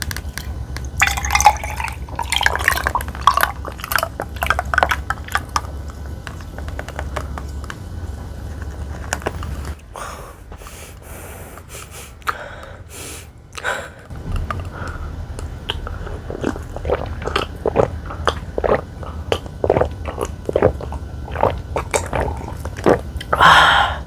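Close-miked eating sounds: chewing and wet, liquid sounds, with many short clicks of utensils against dishes.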